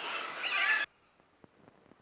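Birds calling over a fast, pulsing high-pitched insect drone. Both cut off abruptly a little under a second in, leaving near quiet with a few faint ticks.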